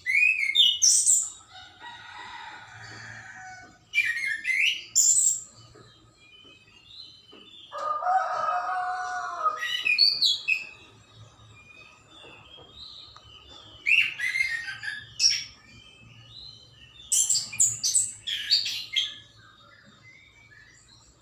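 Birds chirping and singing in short bursts every few seconds, with a longer, lower call lasting about two seconds around eight seconds in.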